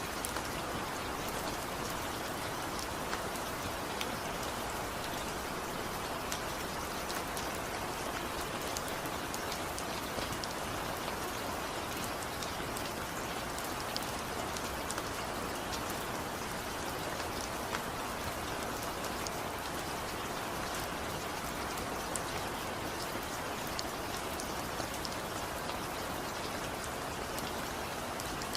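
Steady rain falling, with a dense even hiss and scattered sharp drop ticks, no thunder.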